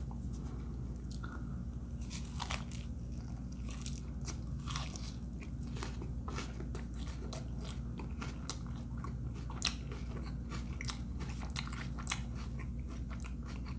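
A person biting into and chewing a mouthful of crispy grilled burrito close to the microphone: a steady run of small, irregular wet clicks and crunches, over a low steady hum.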